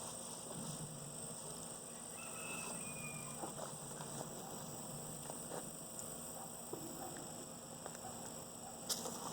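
Honeybees humming around an open hive, with faint scattered clicks and taps from hive parts being handled and a sharper click near the end.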